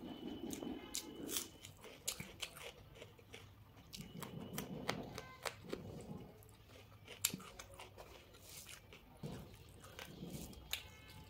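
Close-miked eating sounds of a person eating rice and side dishes with her fingers: chewing with wet mouth noises and many sharp smacking clicks, coming in bunches with each mouthful.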